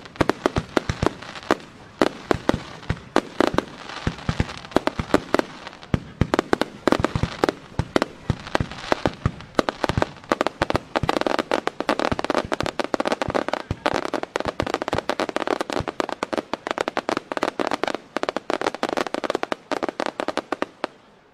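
Fireworks display: a rapid, unbroken string of bangs from bursting aerial shells and ground-launched effects, many per second. The crackling grows denser from about ten seconds in.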